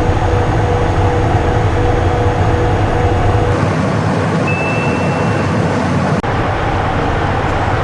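Steady cockpit noise of a Cessna Citation I in flight: the hum of its twin turbofan engines and rushing air. The sound changes abruptly about three and a half and six seconds in, and a brief high tone sounds in the middle.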